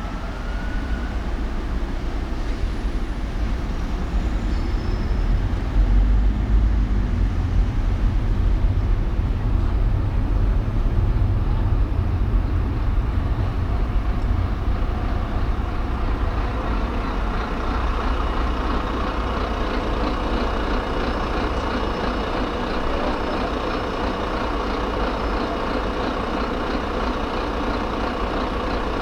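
City road traffic heard from a moving car: a steady low rumble of engines and tyres, with a faint steady higher whine joining just over halfway through.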